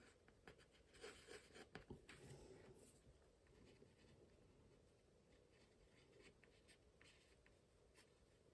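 Faint scratching of a brush or pen making short strokes and spirals on watercolour paper, busiest in the first few seconds.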